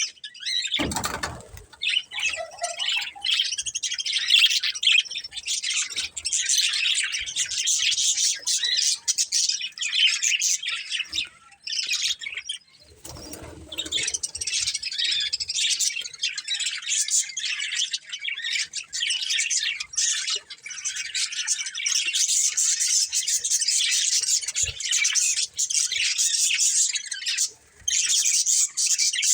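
Budgerigars chattering and warbling continuously in fast, high chirps, with a couple of brief lower rustles about a second in and about 13 seconds in.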